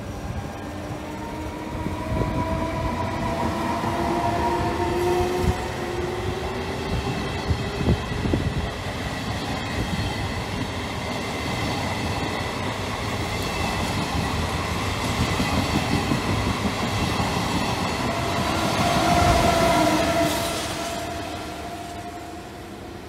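Passenger train hauled by an E464 electric locomotive running past along a station track: a steady rail rumble with clicks from the wheels, and several drawn-out tones that slide a little in pitch. The sound swells to its loudest near the end, then fades.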